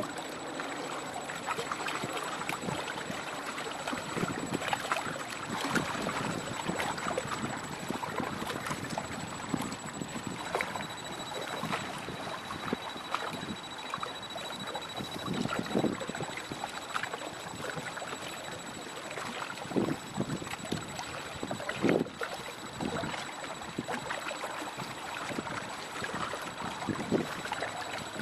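Choppy water splashing and sloshing in irregular surges under strong wind, with wind buffeting the microphone.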